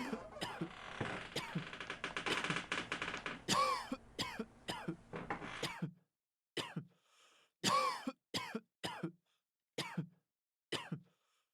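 A run of coughs and throat clearing, added as simulated exam-room noise. A background noise bed under them cuts off about six seconds in, leaving a dozen or so separate short coughs with silence between.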